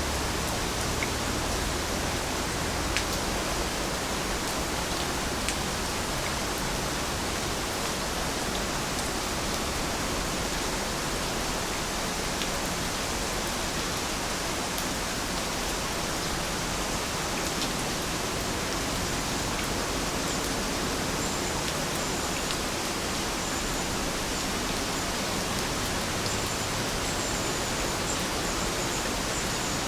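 Heavy rain falling steadily: a dense, even hiss with an occasional single drop tapping close by.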